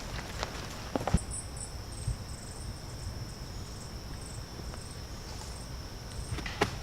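Insects trilling: a steady high-pitched drone with short, higher chirps repeating over it from about a second in, and a few sharp clicks about a second in and near the end.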